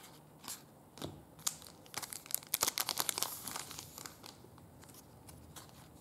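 Plastic trading-card pack wrapper crinkling and rustling as it is handled, with a few sharp ticks, then a dense burst of crackling about two seconds in that dies away a second and a half later.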